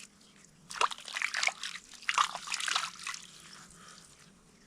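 Water splashing and trickling in short bursts, in two clusters about a second and about two seconds in.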